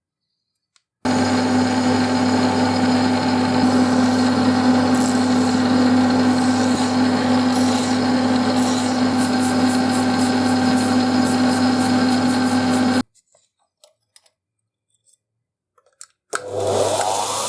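An electric power tool motor running steadily with a strong hum for about twelve seconds, then stopping abruptly. A few small clicks follow, and near the end a motor starts up with a rising whine.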